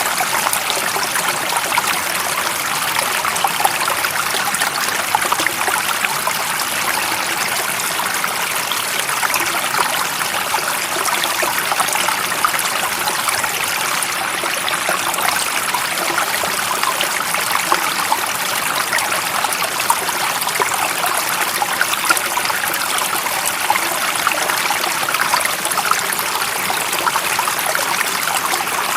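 Stream water running steadily over rocks, an even bright rush with fine trickling and splashing, unchanging throughout.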